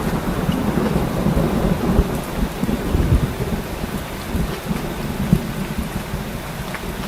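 Steady rain with a low rolling rumble of thunder that slowly fades. The rumble cuts off abruptly at the end, leaving only the rain.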